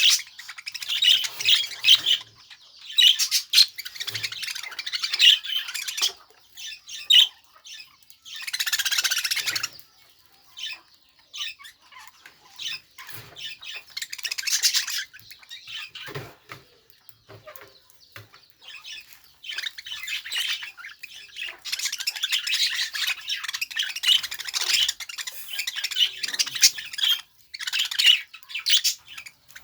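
Budgerigar chattering and warbling, a run of rapid chirps and squawks with brief pauses, including a longer harsh squawk about nine seconds in.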